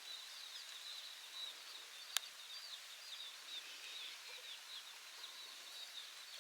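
Small birds chirping continuously, many short high-pitched notes, over a faint steady hiss. One sharp click about two seconds in.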